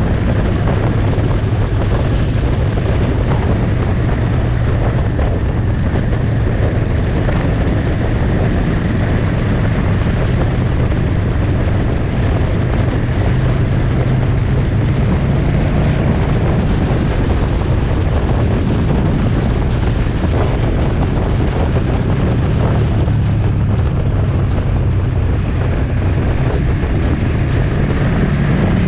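Motorcycle engine running at a steady road speed, its low hum drifting only slightly, under heavy wind rush on the microphone.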